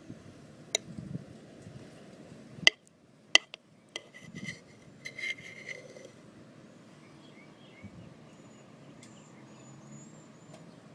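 A utensil clinking and tapping against a bowl, several sharp taps with a brief ringing, while the cooked hamburger grease is worked aside. Faint high chirps, like small birds, come later.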